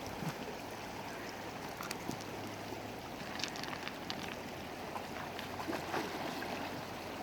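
Creek water rushing steadily, with a few faint knocks and scuffs scattered through it.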